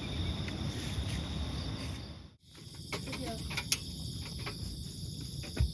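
Outdoor insect chorus, a steady high-pitched trilling, over a low rumbling haze. The sound drops out briefly about two and a half seconds in, then returns with a few scattered clicks.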